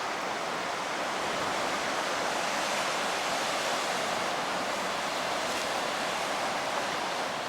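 Ocean surf: a steady rushing wash of breaking waves, without any engine running.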